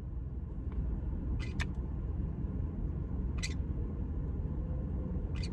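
Steady low background rumble with a few brief high chirps, about a second and a half, three and a half and five and a half seconds in.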